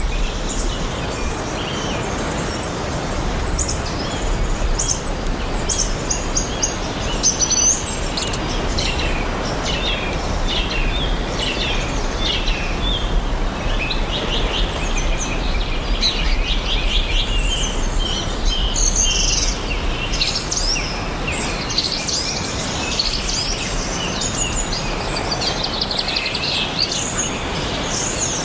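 Songbirds chirping and calling, many short notes and quick trills overlapping, over a steady even rush of background noise.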